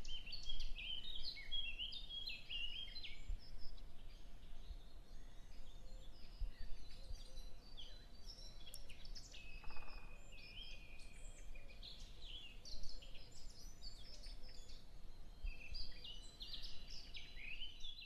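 Small birds chirping and twittering: a dense, unbroken run of short, high calls over a faint steady hum.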